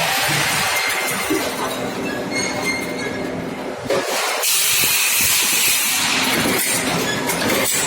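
Industrial forming machinery running with a steady, noisy hiss and clatter. It breaks off briefly about four seconds in, then resumes louder.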